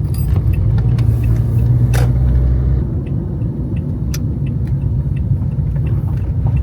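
Car driving along, with a steady low road and engine rumble and a few light clicks.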